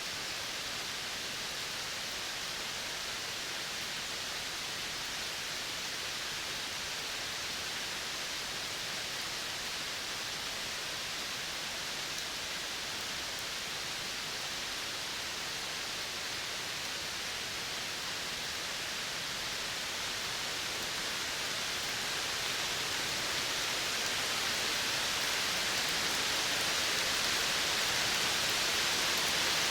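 Steady rain hiss that grows louder over the last ten seconds or so.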